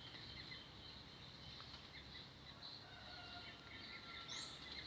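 Faint outdoor ambience: a steady high chirring of insects with scattered small bird chirps.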